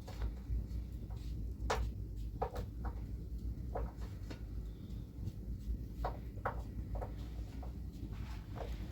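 A handful of short, sharp knocks and clicks, irregularly spaced, over a steady low rumble.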